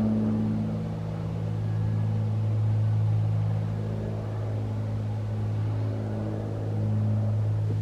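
Cessna T303 Crusader twin-engine piston plane circling close by: a steady low propeller drone with a slow pulsing beat, swelling and easing gently as it passes.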